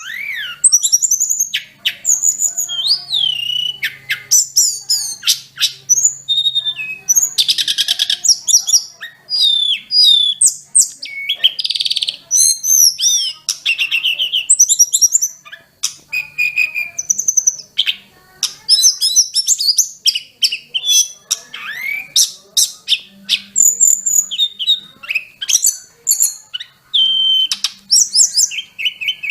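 Tledekan gunung (sulingan gunung) songbird singing a long, varied song: rapid high whistles, rising and falling glides and chattering trills, one phrase after another with barely a pause.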